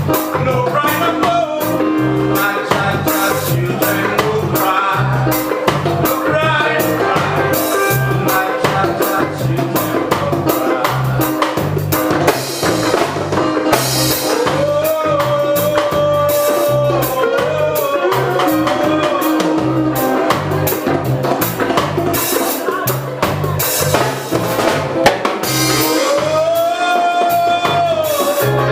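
A reggae band playing live: a steady drum kit with constant cymbal strokes and a pulsing bass line under sustained, gliding melody lines.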